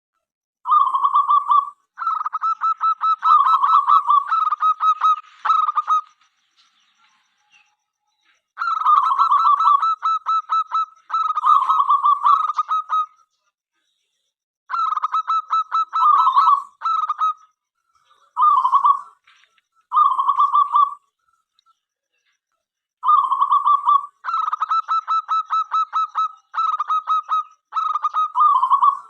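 Zebra dove (perkutut) singing: four bouts of its cooing song, each a rapid run of stuttering coos with rolling notes between, separated by short silent pauses.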